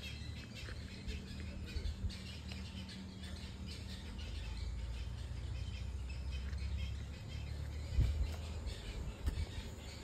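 Birds chirping, with many short calls throughout, over a low steady rumble; a brief thump about eight seconds in.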